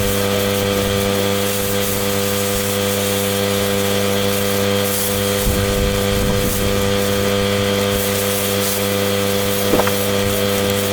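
Pressure-washer engine and pump running at a steady pitch, with an even hiss of spray over it. A brief low rumble comes about halfway through, and a small knock near the end.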